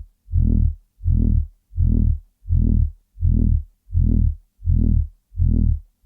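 Loud throbbing noise: a deep buzzing tone that swells and fades in even pulses, about four every three seconds, with short silent gaps between.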